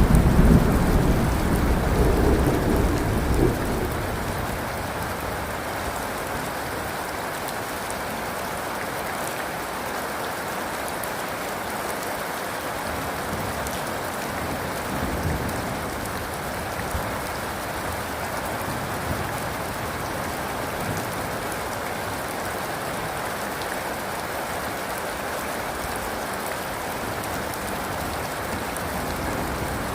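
Steady rain falling, with a low rumble of thunder that dies away over the first few seconds.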